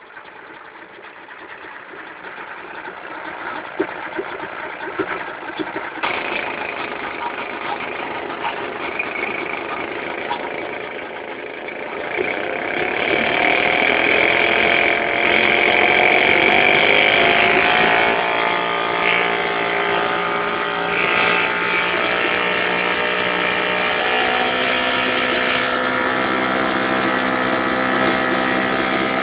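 British Seagull CPCL two-stroke outboard motor running on a test run. It idles at first, is revved up about twelve seconds in, and then holds a steady, faster, louder run.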